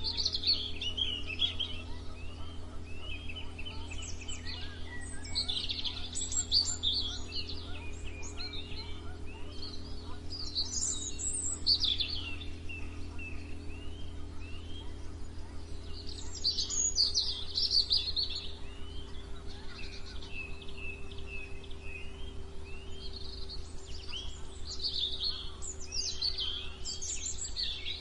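Songbirds singing, a bright burst of song every five or six seconds with short repeated chirps between the bursts, over a steady low hum.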